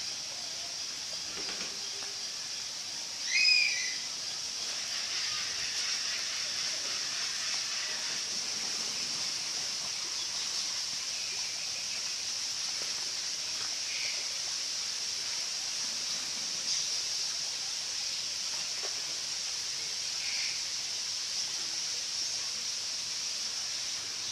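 Tropical bird park ambience: a steady high-pitched hiss runs under scattered bird calls. One short, louder call comes about three and a half seconds in, and a few faint chirps follow later.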